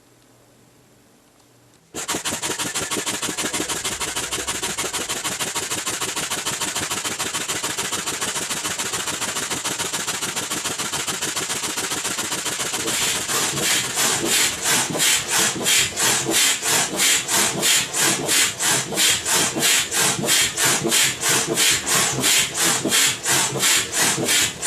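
Bravo 8 foot pump being worked, each stroke rushing and hissing air. It starts about two seconds in as a fast, dense rhythm, and about halfway through settles into clear, even strokes about two a second.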